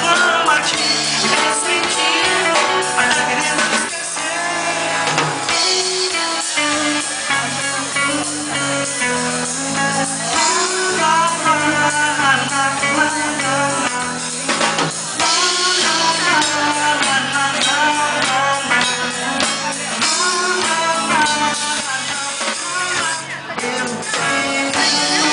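Band playing a pop-rock song, with guitar, bass and drums.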